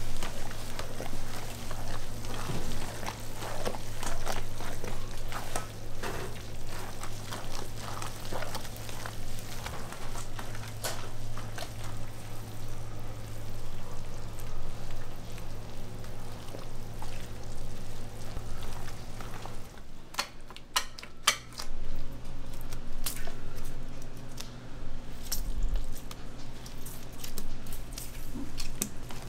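Food sizzling in a pan as it is stirred, with scattered utensil knocks over a steady low hum. A run of sharp clicks comes about two-thirds of the way in.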